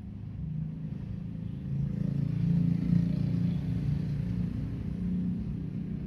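Low motor-vehicle engine rumble that swells about two seconds in and then slowly eases off.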